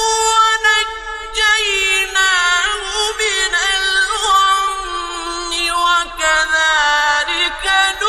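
A male reciter's voice chanting the Quran in a high, melodic style, drawing out long notes with ornamented pitch turns and brief pauses between phrases.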